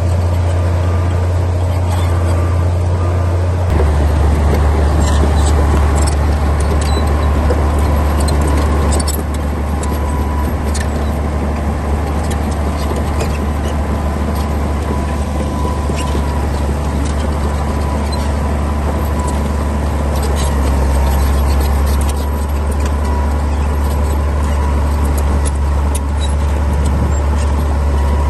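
Komatsu D60P bulldozer's diesel engine running steadily under load, its low drone changing pitch about four seconds in, with scattered sharp clicks and clanks over it.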